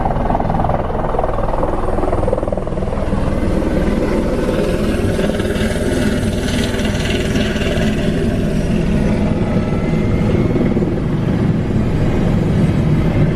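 Helicopter turbine and rotor running steadily and loud, heard from inside the closed cabin.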